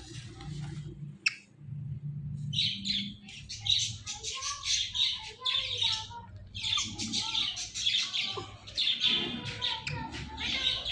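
Pet ringneck parrot chirping and chattering in a rapid, almost unbroken stream of high notes that starts about two seconds in. A low hum runs underneath, and there is one sharp click about a second in.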